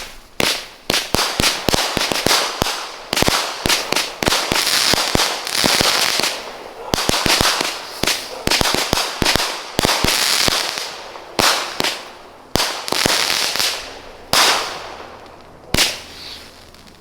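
Four small consumer fireworks (Mighty Minis) fused together, firing a rapid run of sharp bangs with hissing, crackling bursts between them, thinning to a few spaced-out bangs near the end.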